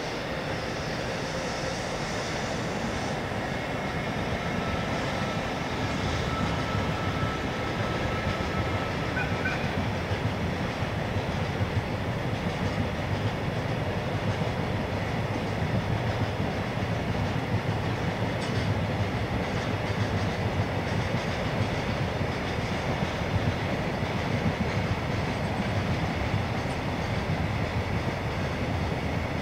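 Container freight train rolling across a river bridge: a steady rumble of wagon wheels on the rails, growing a little louder in the first few seconds and then holding.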